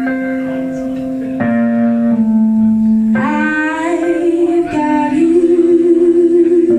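Live band music with a woman singing: guitar chords ring out, and about three seconds in a long sung note with vibrato enters over them.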